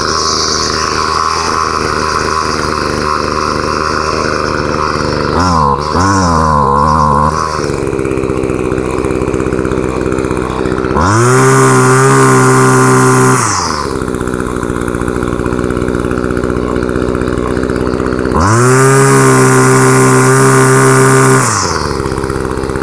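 Homelite 25cc two-stroke engine, fitted with a Ryobi muffler, running at idle just after a cold start. It blips unevenly about five to seven seconds in, then is revved up to high speed twice, for two to three seconds each, around eleven and eighteen seconds in, falling back to idle each time.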